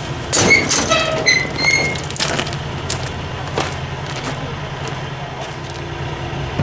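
A steady low mechanical hum, with a burst of sharp metallic clanks and ringing knocks in the first two seconds.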